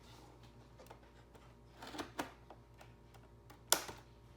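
Faint, scattered clicks and taps of a toy's plastic-and-cardboard packaging being handled and cut open with scissors, with a louder sharp click about three and a half seconds in.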